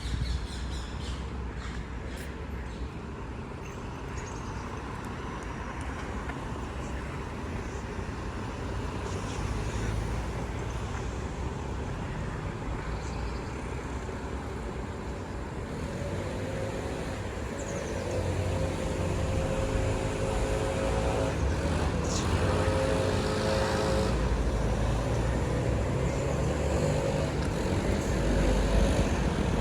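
City street traffic noise. In the second half a motor vehicle draws close and passes, making the sound louder with a steady engine hum.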